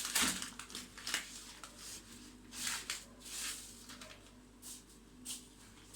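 Dry spaghetti and its plastic packet being handled as the pasta goes into a pot of boiling water: irregular rustling and crinkling with a few light clicks.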